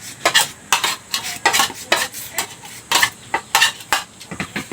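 Metal eating utensils scraping and clinking against a plate, in short irregular strokes a few times a second.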